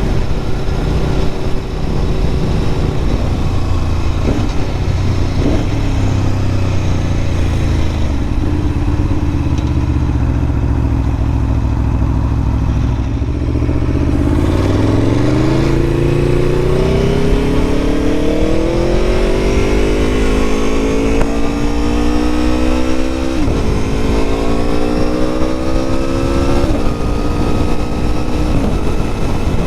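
Aprilia Tuono motorcycle engine under way, its note easing gradually lower for the first half, then climbing steadily as it accelerates from about halfway, with two quick drops in pitch near the end as it shifts up through the gears. Wind rush on the microphone underneath.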